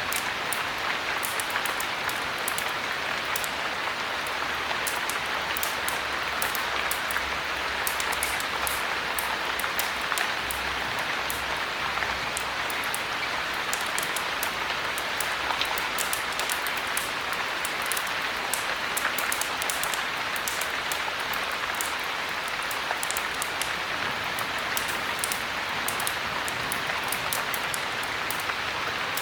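Steady heavy rain, an even rushing hiss with many small sharp ticks scattered through it.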